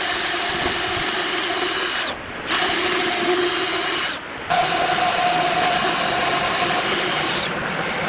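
Handheld electric power tool running at speed with a steady high whine, let off and restarted twice so that its pitch drops and the sound dips briefly, then easing down near the end.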